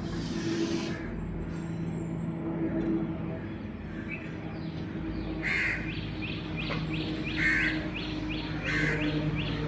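Crows cawing, three loud caws in the second half, over a steady low hum of city background. From about two-thirds of the way in, a small bird gives a quick run of short, falling chirps, about three a second.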